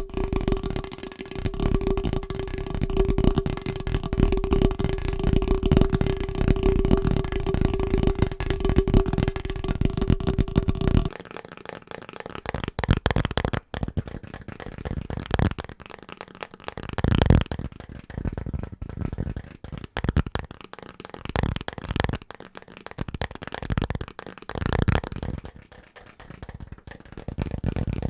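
Fast, aggressive fingertip and fingernail tapping on household objects. For the first part, the rapid taps set off a steady ringing tone. About eleven seconds in, it switches abruptly to a different object, with sparser, uneven taps and scratches.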